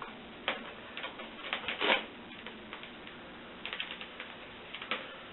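Scattered clicks and light knocks from a sand-casting mold flask being handled and fitted together, in small clusters about two seconds in and again near four seconds.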